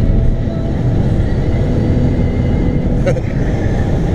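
Steady low rumble of road and engine noise inside a moving car's cabin, with a brief click about three seconds in.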